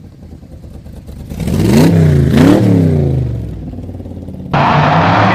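Twin-turbo V8 Ford Cortina drag car engine revved twice, the pitch climbing and falling each time. About four and a half seconds in the sound cuts abruptly to a louder, steady, rougher engine noise.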